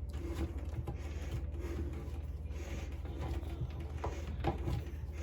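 Sink drain fittings being handled and hand-tightened: a few light clicks and knocks, the loudest about four and a half seconds in, over a steady low hum.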